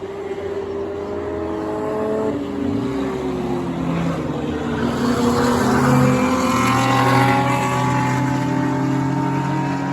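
Several race cars' engines running together around a short oval, each at its own pitch, swelling as the pack passes, loudest about halfway through.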